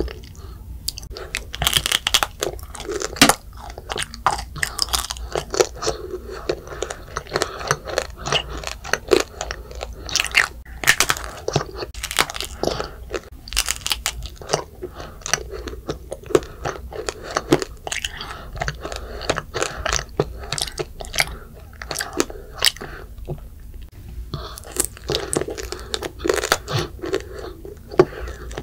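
A child biting and chewing a macaron tanghulu, a macaron glazed in hard candied sugar: the glassy sugar shell crunches and crackles in quick, irregular snaps between chewing sounds, with a brief lull near the end.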